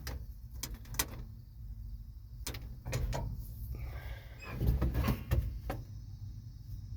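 Scattered clicks and knocks of cab fittings being handled inside a parked dump truck with the engine off, with a louder cluster of clunks and rustling about four and a half seconds in.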